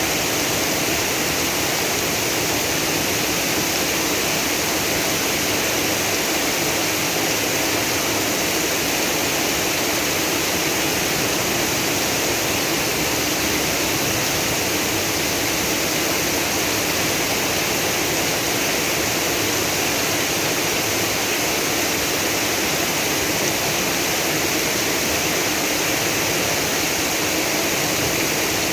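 Heavy downpour: steady, loud rain with rushing floodwater, unchanging throughout.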